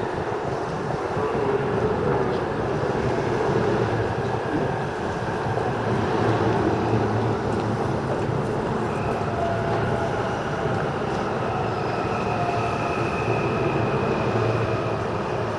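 Shonan-Shinjuku Line electric commuter train pulling slowly into the station: steady running noise of the cars on the rails, with a faint high whine from about nine seconds in.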